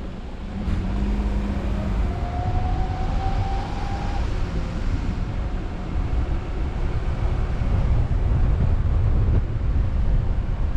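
A car driving, with the steady low rumble of engine and tyres on the road. A faint, slightly rising whine sounds for a couple of seconds near the start.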